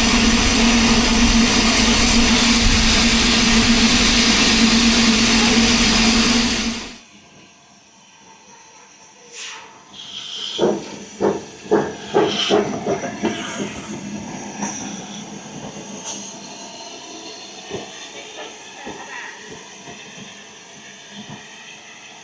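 Steam locomotive letting off a loud hiss of steam with a steady low tone, cutting off abruptly about seven seconds in. After a short lull come a series of sharp knocks and clanks, then quieter rumbling.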